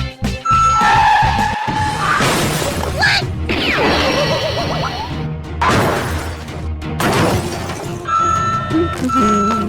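Cartoon sound effects over background music: a vehicle's reversing beeps, then two loud crashing, shattering noises about two and six seconds in, then the reversing beeps again near the end.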